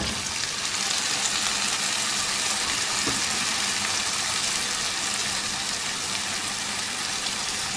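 Yogurt-marinated chicken pieces sizzling in hot oil in a pan with fried onions and tomatoes, a steady hiss just after the wet chicken goes in.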